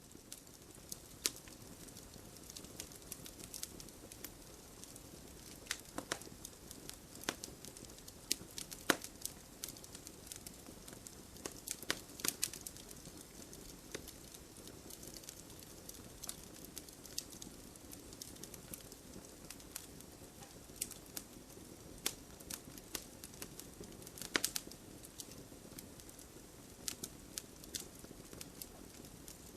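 Burning logs in a wood fire crackling: irregular sharp pops and snaps, a few louder than the rest, over a steady low hiss and rustle of the flames.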